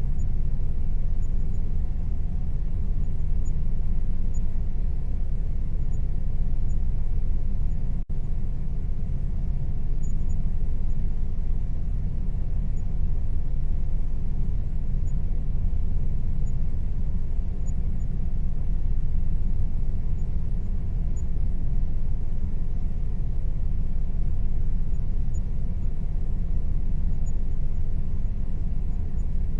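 Air conditioner running with a steady low rumble and a faint hum tone above it. There is a momentary dropout about eight seconds in.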